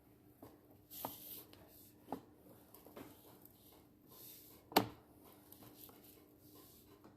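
Scattered knocks and clicks with a few short rushes of hiss, the loudest a sharp knock about five seconds in, over a faint steady hum: the sewer inspection camera and its push cable knocking along inside the drain pipe.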